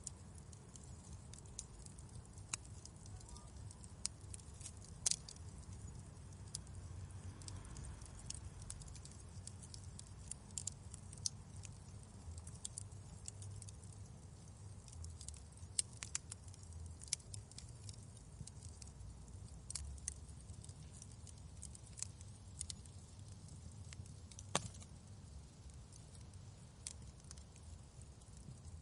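Wood fire crackling in a fireplace: irregular sharp pops and snaps over a low steady rumble, with a few louder snaps.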